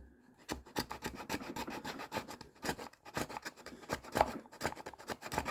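A hand file sawing back and forth through the edge of a plastic case, widening a cut-out slot. Quick, even rasping strokes, several a second, starting about half a second in.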